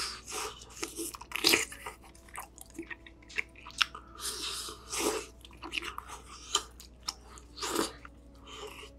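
Mouth sounds of biting and chewing a giant chewy rice cake (tteokbokki) in spicy red sauce: many wet, sticky clicks and smacks. Several louder slurps come through, the last about a second before the end.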